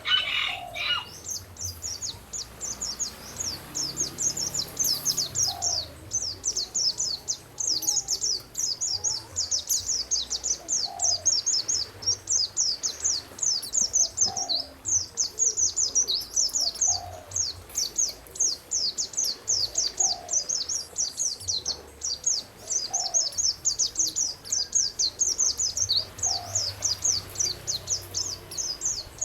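Songbirds singing: a dense, continuous stream of rapid high chirps, with a short lower call repeating every two to three seconds.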